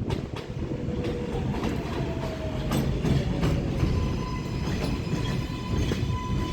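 New York City subway train running through the station: a steady rumble with the wheels clacking over rail joints, and an electric whine from the traction motors, one tone gliding slightly down in the first half, then a set of steady higher tones.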